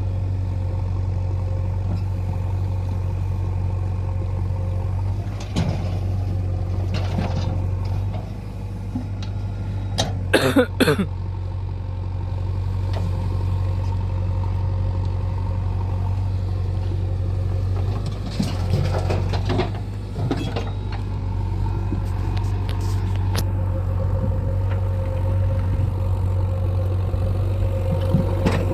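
Diesel engine of heavy farm or construction machinery running steadily at low revs, with a few short sharp clanks and squeaks breaking in, the loudest about ten seconds in.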